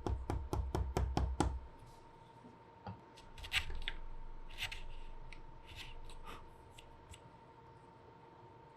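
A quick, even run of strikes on wood, about four or five a second, stops about a second and a half in. Scattered lighter clicks and knocks of handling follow.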